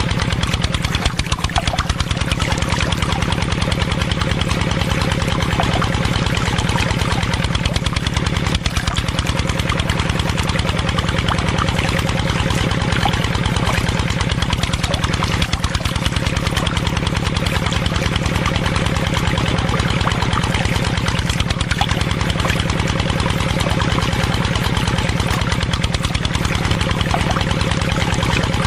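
Small engine running steadily at idle, with a fast, even pulsing beat.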